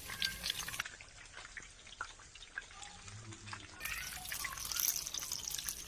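Chicken lollipops deep-frying in hot oil: a steady fizz full of small crackles and pops.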